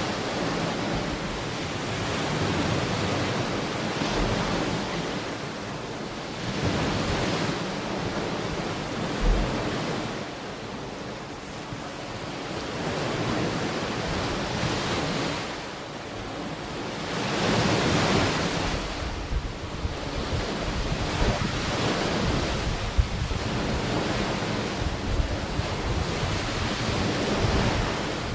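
Ocean waves breaking and washing onto the shore, the surf swelling and fading every few seconds, with wind buffeting the microphone.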